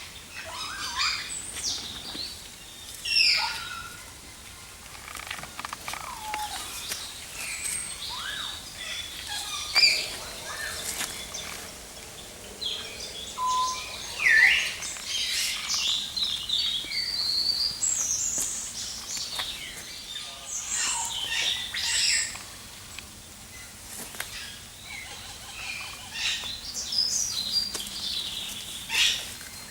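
Many birds chirping and calling at once: overlapping short chirps and whistles, with a few louder sharp calls standing out.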